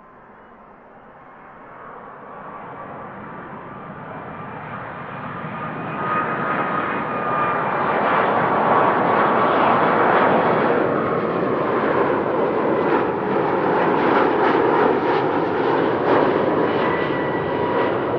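Jet airliner approaching and passing close by: engine noise builds over about eight seconds to a loud, steady rush, with a thin whining tone that drifts slightly lower in pitch.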